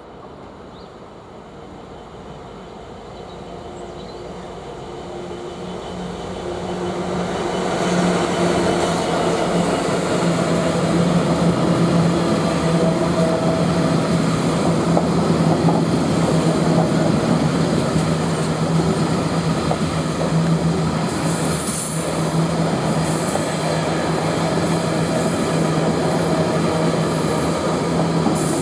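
Class 66 diesel-electric locomotive approaching and passing with its two-stroke V12 engine running as a steady low drone, growing louder over the first eight seconds, followed by loaded freight wagons rolling by. High-pitched wheel squeals come in over the last third.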